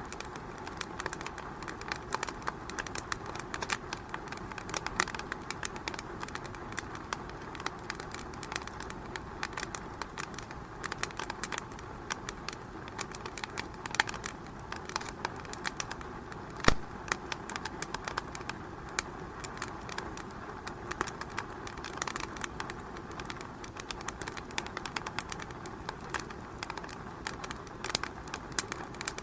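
Wood fire crackling in a fireplace: a steady hiss of flames with constant irregular small snaps, and one sharp loud pop a little past halfway.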